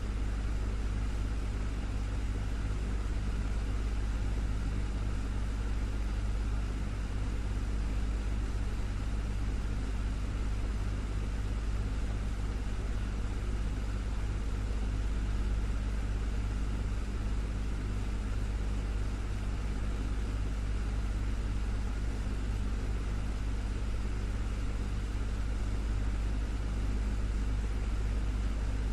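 Desktop fan running steadily: a constant low hum with an even airy whoosh over it.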